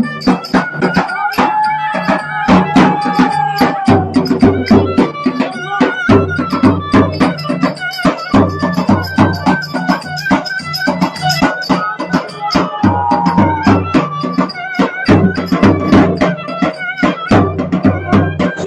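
Traditional folk music: a fast, steady drum beat under a melody line.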